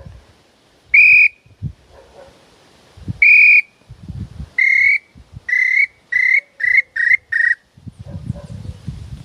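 Bird-call whistle (pio) blown in a series of whistled notes: two long notes, then six shorter ones coming faster and faster, the last few dropping slightly in pitch. Low thumps and rustling in between.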